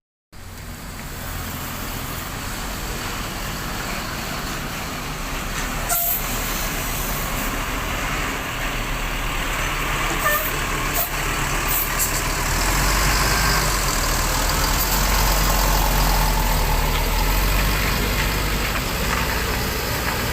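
Diesel bus engine running close by, getting louder about halfway through, with a few short sharp hisses like air-brake releases.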